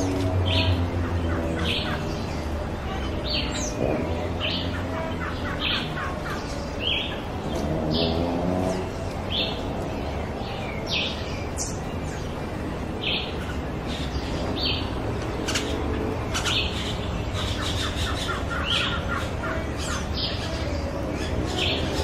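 Forest birds calling: a short, high chirp repeated roughly once a second, with lower, wavering pitched notes at times and a steady low hum underneath.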